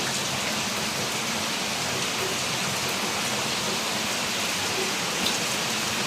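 Heavy rain pouring down steadily, with a dense hiss and the odd drop tick.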